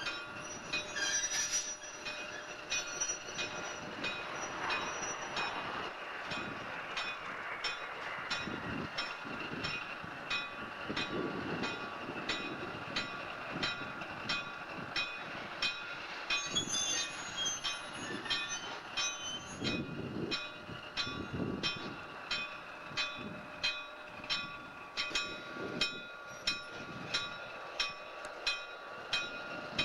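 USAF Engine 4040 pulling coal cars along the track. The wheels click over the rail joints in a steady rhythm that quickens in the second half, under a steady high whine.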